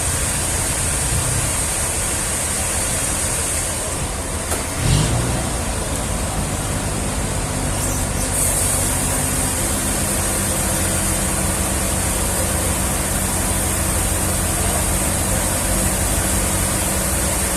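An engine running steadily, with a single knock about five seconds in.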